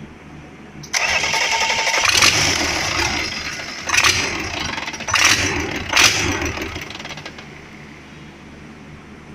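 Renault engine being started with the starter: a sudden loud mechanical run begins about a second in, surges three times, then dies away after about six seconds.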